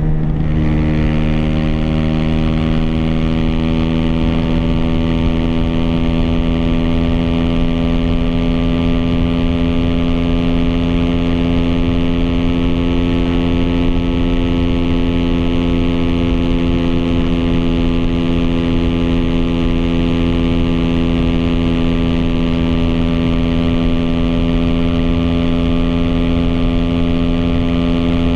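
Aprilia SX 125's single-cylinder four-stroke engine through an Arrow Thunder slip-on exhaust with dB-killer and Arrow racing header, running under way at a steady engine speed. The pitch drops briefly right at the start, then holds steady. Heard from a phone carried in the rider's backpack.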